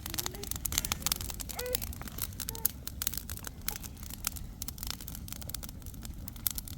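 Dense, irregular clicking and crackling over a steady low rumble, with a few faint snatches of voice.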